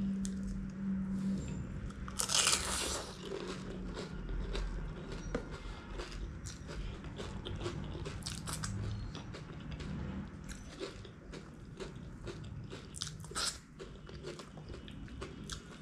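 A person biting into a crisp panipuri shell and chewing it, with a loud crunch about two seconds in, then chewing and smaller crunches, and another burst of crunching about halfway through.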